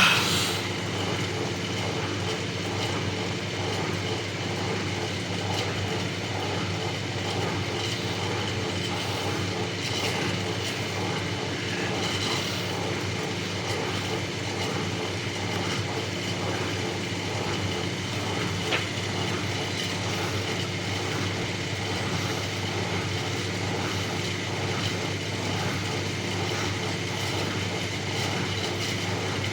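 Bauknecht WAS 1400 washing machine running, its motor making a steady hum with a few faint ticks.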